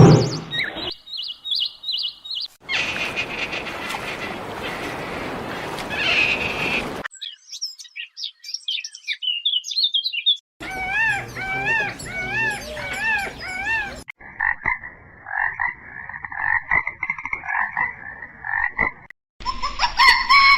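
A run of short animal-call clips, one after another: high chirps, a noisy stretch, warbling song, repeated arched calls, and a long pulsed trill about two-thirds of the way in.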